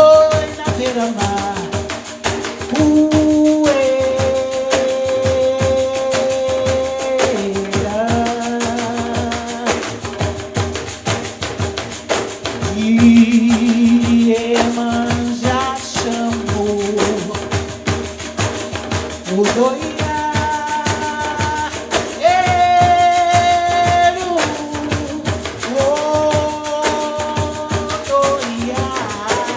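Live Brazilian music: pandeiros, frame drums with jingles, play a dense, steady rhythm under a melody of long held notes, some sustained for about three seconds.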